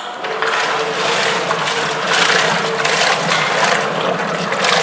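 Small washing machine's electric motor running and spinning the impeller, a steady hum under a loud, rough mechanical rattle. It starts abruptly.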